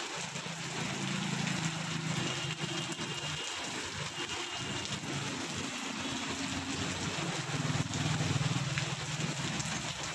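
Steady rain falling on a wet road, with the hum of a motorcycle engine passing, about a second in and again near the end.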